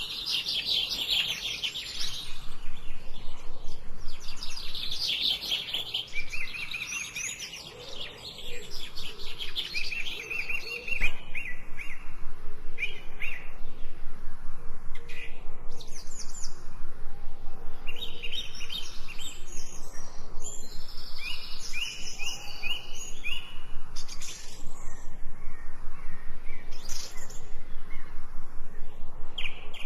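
Several songbirds chirping and singing, with overlapping runs of quick, high repeated notes and trills.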